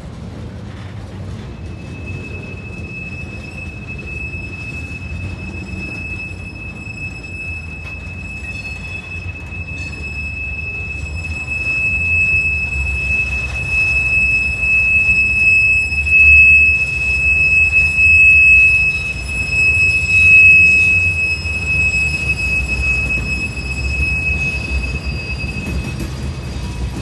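Norfolk Southern freight train of covered hoppers and tank cars rolling past, wheels rumbling on the rails. A steady high-pitched wheel squeal sets in about two seconds in and holds until near the end, with the rumble growing louder in the middle.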